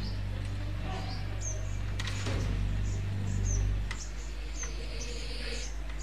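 Small birds chirping, short high calls repeated about twice a second, over a steady low hum that drops away about four seconds in.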